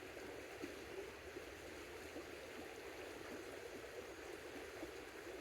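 Faint, steady running water of a creek.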